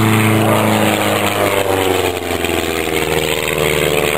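Light aircraft's propeller engine flying past, its note dropping in pitch about a second or two in as it goes by.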